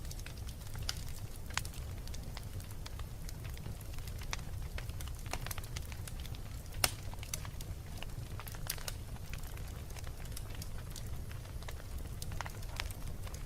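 Wood fire crackling in a fireplace: irregular sharp pops and snaps over a steady low rumble of burning, with one louder pop about seven seconds in.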